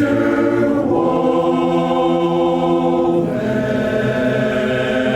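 Barbershop chorus singing a cappella in close harmony, holding long chords that change about a second in and again about three seconds in.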